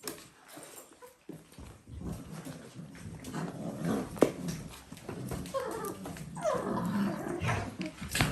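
Dalmatian puppies vocalising as they play-fight, busier from about two seconds in, with a sharp knock about four seconds in.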